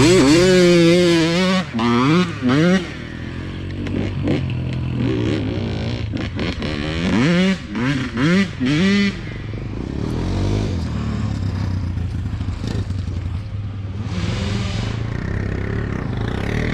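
An 85cc two-stroke dirt bike engine revs hard in quick rising-and-falling bursts for the first three seconds and again from about seven to nine seconds. In between and afterwards it runs at lower, steadier revs.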